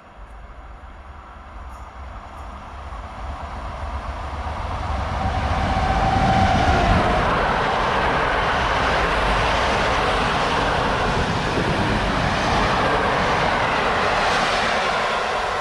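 Intercity passenger train approaching and running past on the tracks, its noise growing over the first six seconds or so, then staying loud and steady.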